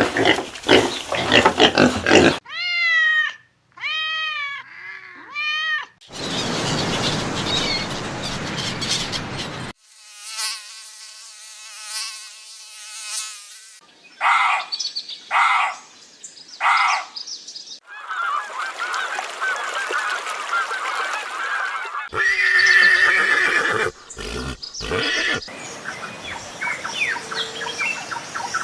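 A run of short clips of different animal calls, cut one after another every few seconds. Three loud calls come about halfway through.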